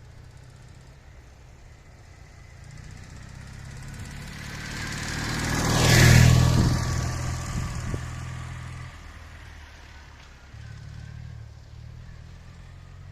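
Ural motorcycle's flat-twin engine running as the bike passes close by. Its steady rumble builds to a loud peak about six seconds in, then fades away.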